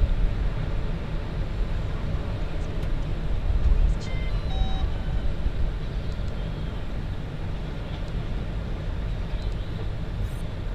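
Low, rumbling wind noise buffeting the microphone, with a short run of stepped tones about four seconds in.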